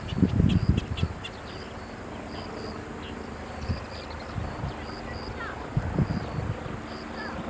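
Insects chirping in short, evenly repeated high-pitched calls, with low rumbling thumps near the start and again around six seconds in.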